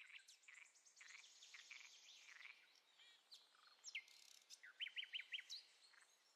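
Faint birdsong: scattered short chirps and trills, with a quick run of four chirps about five seconds in.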